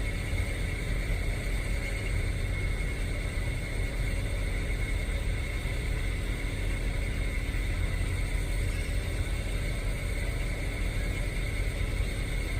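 Steady mechanical drone with a low rumble and a few steady high tones.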